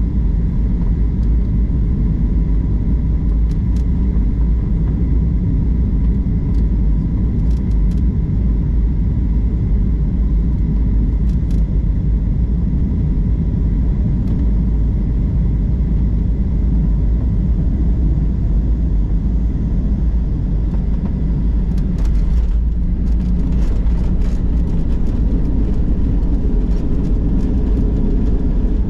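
Airliner cabin noise: a loud, steady low rumble of engines and airflow. About three quarters of the way through, the rumble shifts and a run of light clicks and rattles sets in.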